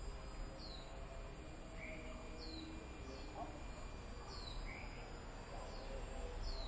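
Wild birds calling in forest: short high chirps that drop in pitch, repeated every second or so, with a lower rising note about every three seconds, over a faint steady high-pitched buzz.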